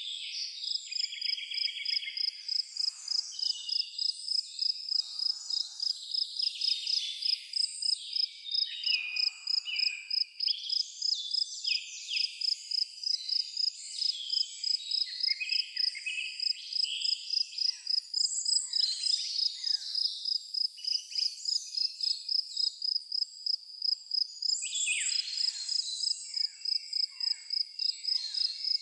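A cricket chirping in a steady, even rhythm of about three chirps a second, with several birds singing and calling over it.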